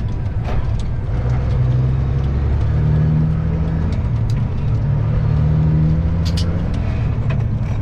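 Semi truck's diesel engine droning steadily, heard from inside the cab while driving; its pitch rises and falls slightly with the throttle. A few short clicks or rattles come about six seconds in.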